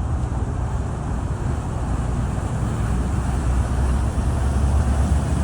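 Steady low rumble of vehicle or traffic noise, getting a little louder near the end.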